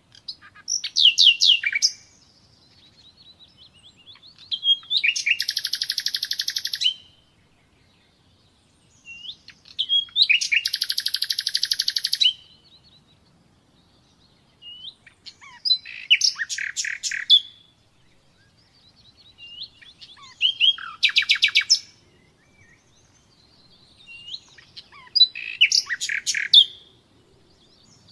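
Common nightingale singing: six separate song phrases a few seconds apart. Two are long, dense buzzing trills; the others are rapid runs of sharp clicking notes, often opened by a short rising whistle.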